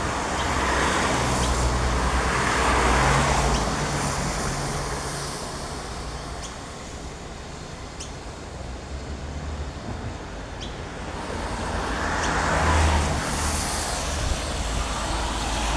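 Road traffic passing on a nearby road: a rushing swell of a vehicle going by over the first few seconds, a lull, then another passing near the end.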